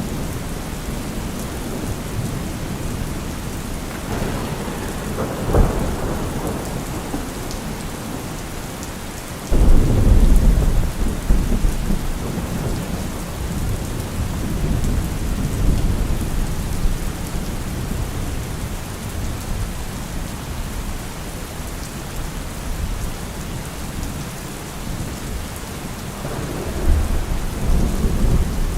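Steady rain with thunder. A rumble with a sharp crack comes about five seconds in, then a loud, sudden clap about ten seconds in that rumbles off over several seconds, and a further rumble near the end.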